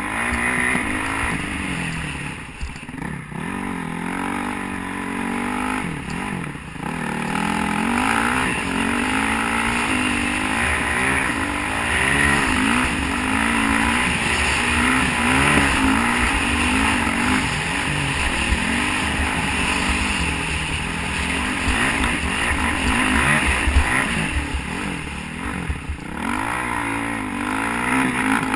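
Honda CRF450 motocross bike's single-cylinder four-stroke engine being ridden hard, its pitch climbing and dropping again and again as the throttle is opened and shut through the gears. There are brief throttle-offs a few seconds in, and wind buffets the microphone underneath.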